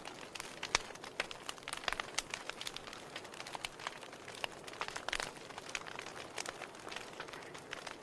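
Wood fire burning in a fireplace, with a steady low hiss and frequent irregular crackles and pops from the burning logs.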